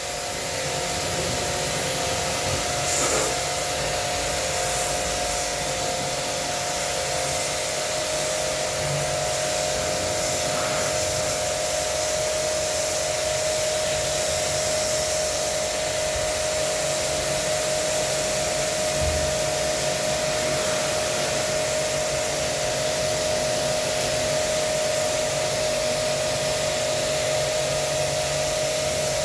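Small electric pressure-washer pump running steadily with a constant whine, its water jet hissing as it sprays an air conditioner unit clean.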